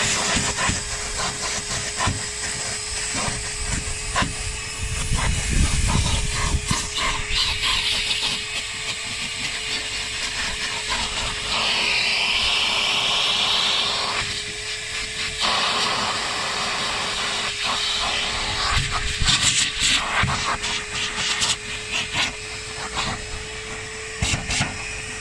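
Vacuum cleaner switched on and running with a steady whine, sucking loose debris out of a car's engine bay, with scattered clicks and rattles from the nozzle and bits going up the hose.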